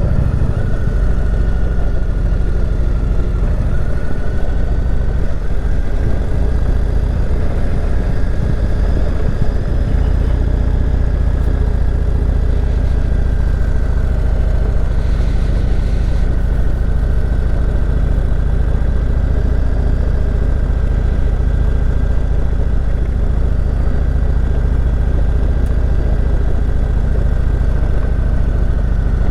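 Motorcycle engine running steadily at low speed while riding on a loose gravel and dirt road, with a constant low rumble and no sudden changes.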